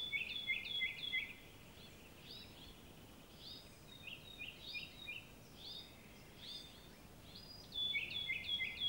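Songbird singing series of short, high, quickly repeated notes in bouts with pauses between, over a faint outdoor background hiss.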